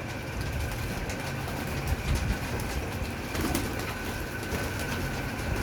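Homing pigeons at a water bath, one giving a short low coo about three and a half seconds in, over a steady low rumble.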